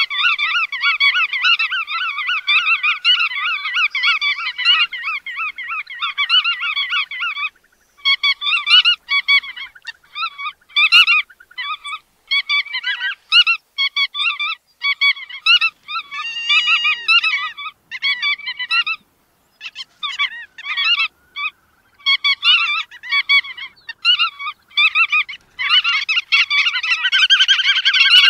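Bar-tailed godwits calling: rapid, repeated nasal chattering notes. The calls are dense and continuous at first, break into short bursts with brief pauses through the middle, and run densely again near the end.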